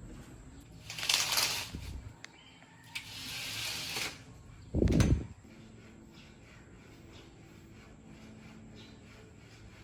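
Household handling noises: a short burst of noise about a second in, a hiss from about three to four seconds, and a heavy thump about five seconds in, then a quiet stretch.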